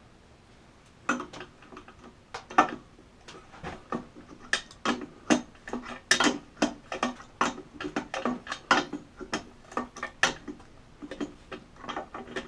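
Irregular sharp clicks and light knocks from hand tools and small metal parts being handled, starting about a second in.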